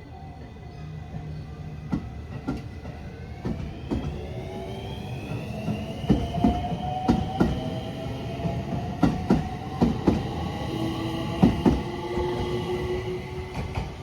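Electric train running through the station, its motor whine rising in pitch as it gathers speed, with the wheels clacking over rail joints in a run of sharp knocks.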